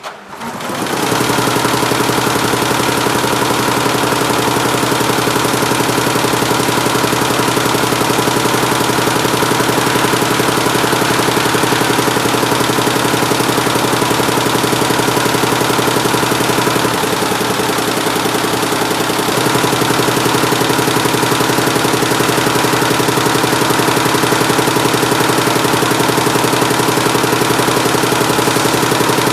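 A 176-needle mini Schiffli embroidery machine starts up and runs steadily with a fast, even mechanical rhythm. From about seventeen to nineteen seconds in, its sound changes briefly and drops a little in level.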